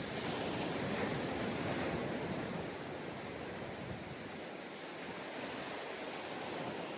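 Ocean surf: a wave breaks and washes up the beach at the start, and its rush eases over the next couple of seconds into a steady wash.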